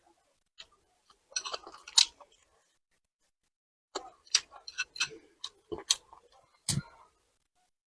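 Eating sounds: chewing and crunching of food in two bursts, mixed with sharp clicks and taps.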